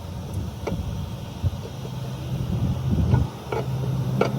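A low, steady mechanical hum, like an engine or machine running, with a few short, sharp metallic knocks.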